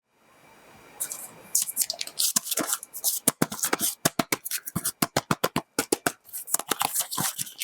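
Hands handling a small object, making a rapid, irregular series of sharp clicks and taps.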